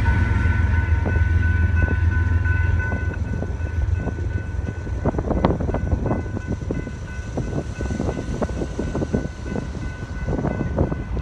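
Low rumble of a freight train on the rails, with a steady high ringing tone, fading over the first three seconds as the train moves away from the crossing. After that, quieter irregular clicks and knocks.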